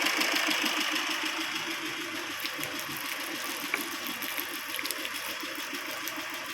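Tata Vista car engine idling steadily with an even, regular pulse, running to circulate coolant and push the oil left in the block and head out of the cooling system after an oil cooler replacement. A few light clicks are heard over it.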